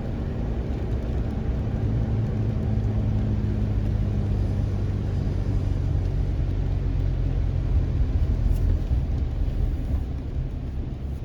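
Steady low rumble of a road vehicle, with a faint low hum that fades out about halfway through.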